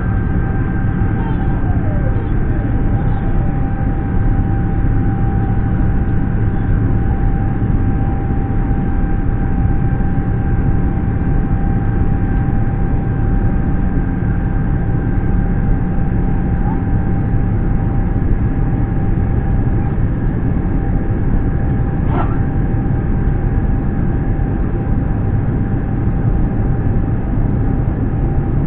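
Steady in-flight cabin noise of an Airbus A350 airliner: a constant deep rush of airflow and engines with a faint steady whine above it.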